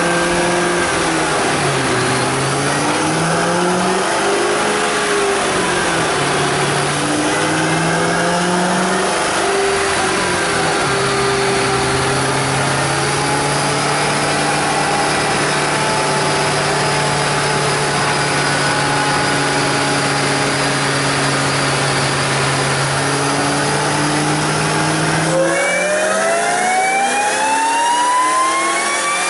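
Whipple-supercharged Ford 4.6L 3-valve V8 in a Mustang GT running on a chassis dyno. Its revs rise and fall for about ten seconds, then hold steady. About four seconds from the end a full-throttle pull begins, the engine note and a high supercharger whine climbing together.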